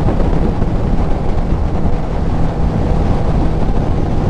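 Heavy wind buffeting over a helmet-mounted microphone at riding speed, with the Kawasaki Z900's inline-four engine running underneath through a CS Racing full exhaust.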